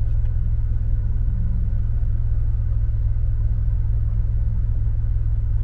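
Steady low rumble of a car idling, heard from inside the closed cabin.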